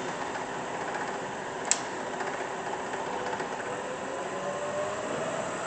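Bridgeport Series I vertical milling machine's 2 hp variable-speed head running its spindle in high range, a steady mechanical whir. There is one sharp click a little under two seconds in, and a faint tone rises slowly through the second half.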